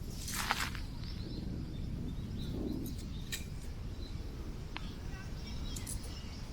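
Strong wind buffeting the microphone, a steady low rumble, with a short rustle about half a second in, a sharp click near three seconds, and faint bird chirps.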